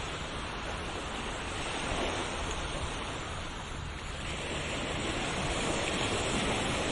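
Ocean surf: waves washing continuously onto a shore, easing a little a few seconds in and then swelling again.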